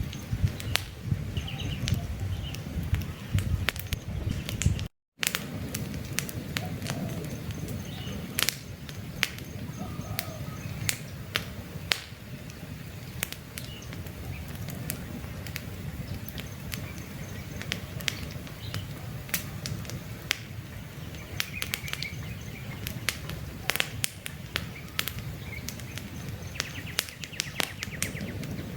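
Campfire of burning wood crackling, with many sharp irregular pops over a low steady rumble of flame, and faint bird chirps now and then. The sound drops out completely for a split second about five seconds in.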